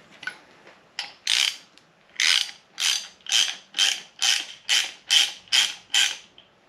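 Hand ratchet wrench worked back and forth on an engine fastener, about eleven quick rasping strokes at roughly two a second, stopping a little after six seconds.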